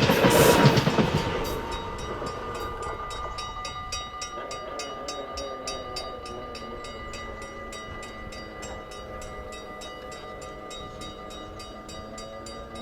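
A train passes over a Dutch level crossing, its noise fading away over the first couple of seconds. The crossing's warning bell keeps ringing in quick, even strokes, about three a second.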